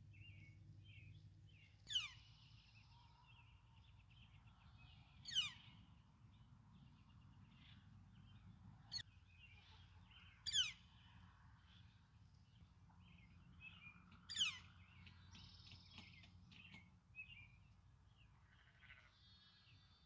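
Outdoor birdsong: a scatter of small chirps and twitters, with a loud call that sweeps sharply downward in pitch four times, every three to four seconds, over a faint steady low rumble.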